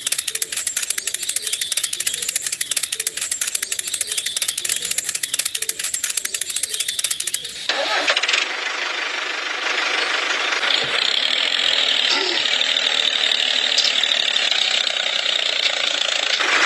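Small motor of a homemade model diesel-engine water pump running with a fast, even rattle. About eight seconds in the sound changes abruptly to a steadier whirring hiss.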